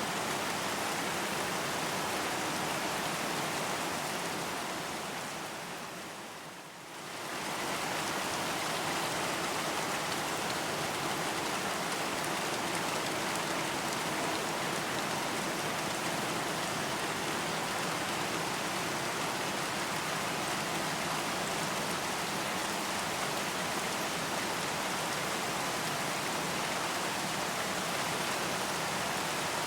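Steady rain falling, an even hiss of drops. It fades down for a few seconds, lowest about seven seconds in, then swells back quickly to the same level.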